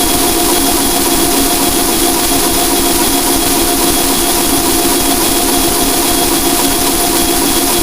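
Harsh noise wall: a loud, unchanging wash of dense static with several steady droning tones held underneath it, without rhythm or variation.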